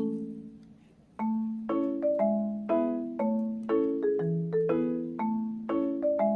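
Background music: a gentle tune on a marimba-like mallet instrument. The notes are struck about twice a second and each rings out. It starts after a pause of about a second.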